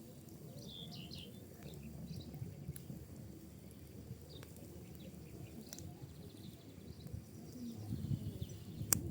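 Wood and pinecone fire burning in a fireplace: a steady low rumble of flames with a few sharp crackling pops, the loudest near the end. A few short high chirping sounds come about a second in.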